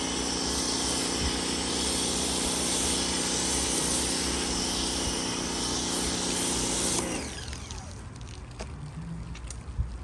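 Pressure washer running with a snow foam cannon spraying: a steady motor-and-pump hum under a loud hiss of spray. It stops about seven seconds in, with a brief falling whine as the motor slows.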